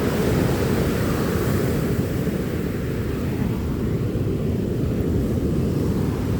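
Sea surf at a beach: a steady low rumble of waves, with a brighter hiss of washing water in the first couple of seconds that then dies down, and wind rumbling on the microphone.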